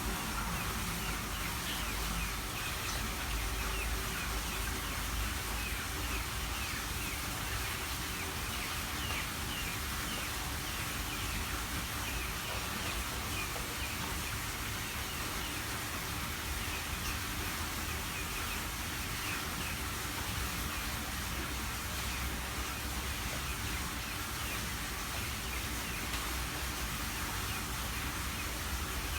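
Cucak ijo (greater green leafbird) singing a busy run of quick, short chirps over a steady background hiss.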